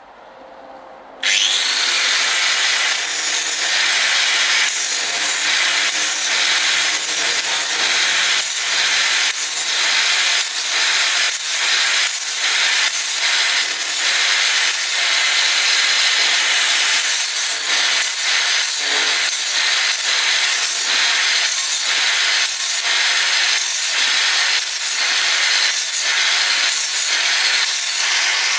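Sawing with a steady back-and-forth rhythm of about three strokes every two seconds, starting abruptly about a second in.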